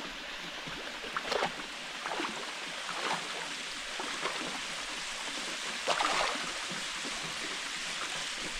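Mountain waterfall pouring into its plunge pool: a steady rush of water, with a few brief louder splashes about a second, two, three and six seconds in.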